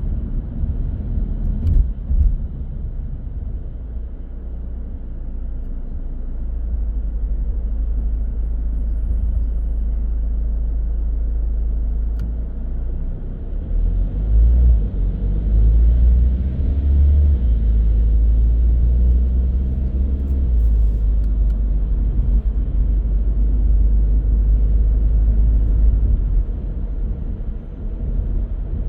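Car driving on city roads: a steady low rumble of engine and tyres, with a sharp bump about two seconds in and a louder stretch from about halfway through.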